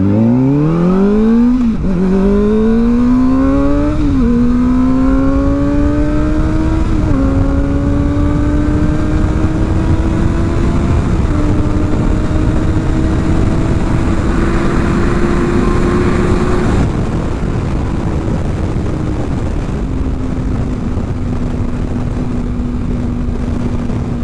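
Kawasaki ZX-4R's inline-four engine, breathing through a new aftermarket exhaust, accelerating through the gears. The note climbs and drops back at each of four upshifts over the first eleven seconds, then holds steady at cruising speed under constant wind noise.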